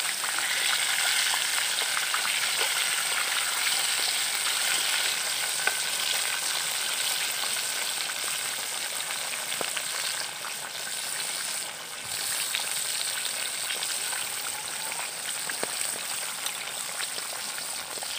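Pork chops frying in a pan of hot oil, nearly cooked: a steady sizzle with scattered small crackles.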